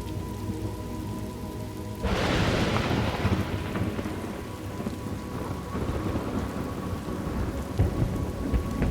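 Thunderstorm: steady rain with low rumbling, and a crack of thunder about two seconds in that rolls away over the next few seconds.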